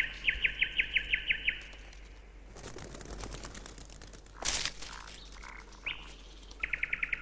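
A small songbird singing a fast trill of short, evenly repeated high notes, about eight a second, at the start and again briefly near the end. A short rustling burst comes in between.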